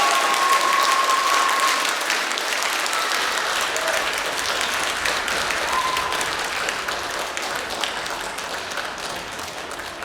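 Audience applauding after a dance performance, the clapping gradually dying down.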